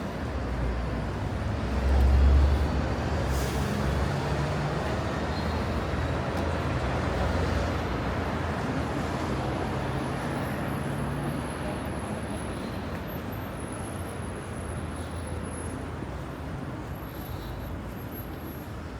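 Road traffic on a city street: engine rumble and tyre noise of passing vehicles, loudest about two seconds in and then slowly fading.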